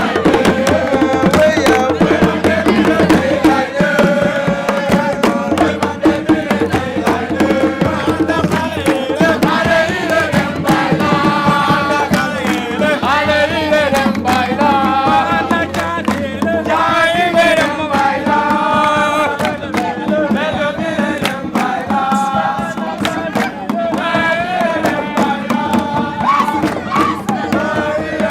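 Drums played in a fast, dense rhythm while voices sing over them.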